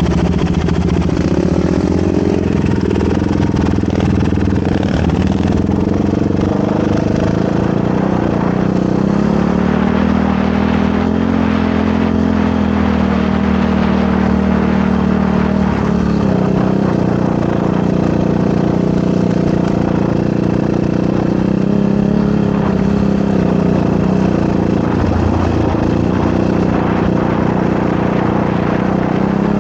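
Motorcycle engine running while riding, its pitch rising and falling gently with the throttle.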